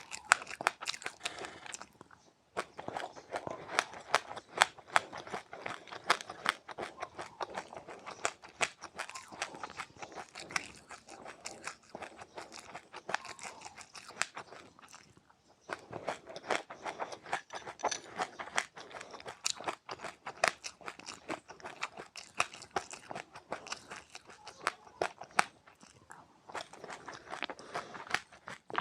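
Close-up chewing of crunchy seeds: dense, rapid crackly crunching that stops briefly twice, once a couple of seconds in and once about halfway.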